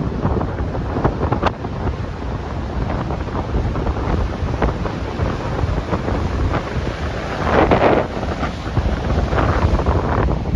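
Strong wind buffeting the microphone over the rush of storm-driven ocean surf, with one louder surge of noise about eight seconds in.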